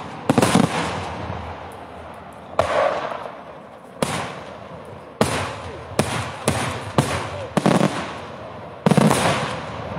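Daytime aerial fireworks shells bursting overhead: a rapid, irregular series of loud bangs, some in quick doubles and triples, each trailing off in an echoing rumble.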